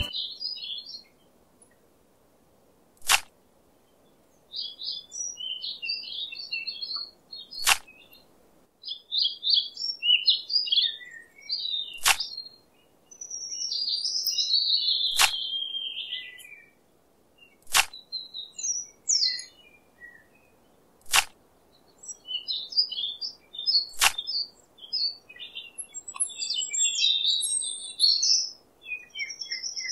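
Small birds chirping and twittering in bursts, broken by seven sharp single clicks spaced about three to four seconds apart.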